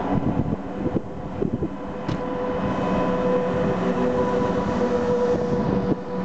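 A VR Class Sr2 electric locomotive and its double-deck InterCity coaches run past at close range. The passing train makes a steady rumble with a held humming tone, and a few wheel knocks come in the first couple of seconds.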